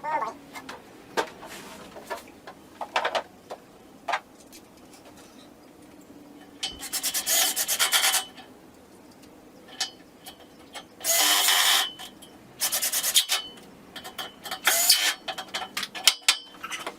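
Several short rasping bursts, each about a second long, with small knocks and clicks between them: hands-on assembly or unpacking work on a treadmill's parts.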